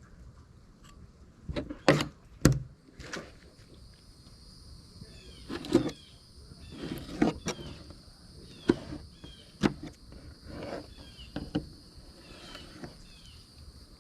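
Ducks calling in short, irregular quacks, a dozen or so spread over the stretch, with small chirps among them. A steady high-pitched whine comes in about three seconds in and holds on.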